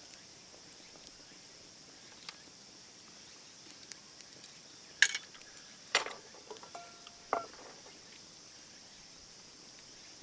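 Insects chirring steadily in a high, even drone. Over it come a few sharp clinks and knocks about halfway through, one with a short ringing tone.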